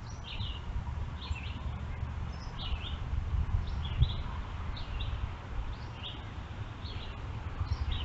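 A small bird chirping over and over, short high chirps coming about once a second, over a steady low rumble.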